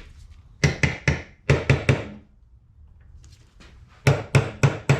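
A series of sharp workshop taps and knocks: a quick group of about six in the first two seconds, then another rapid run starting about four seconds in.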